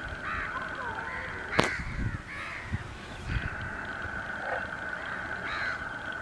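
Crows cawing several times, short harsh calls against a steady high whine, with a single sharp click about a second and a half in.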